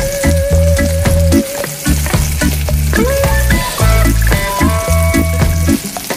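Eggplant slices and chopped garlic frying in oil in a pan, with a steady sizzle and a wooden spatula stirring and scraping. Background music with a steady bass line plays throughout.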